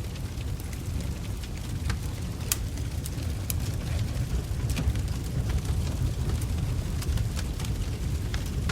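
Wood logs burning in a fireplace: a steady low rumble of the fire with irregular sharp crackles and pops.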